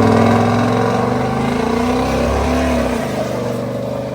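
Truck engine running at high revs, its pitch shifting and then dropping as the throttle eases off about three seconds in, the sound fading after that.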